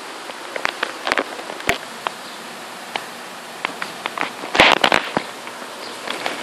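Heavy rain falling steadily, with scattered sharp pops and clicks over it and a quick cluster of them about four and a half seconds in.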